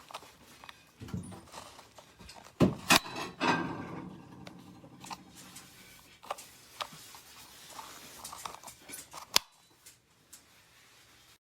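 Handling noise: scattered clicks, taps and knocks with some rustling, a few sharp knocks about two and a half to three seconds in and another near the end, then the sound cuts off abruptly.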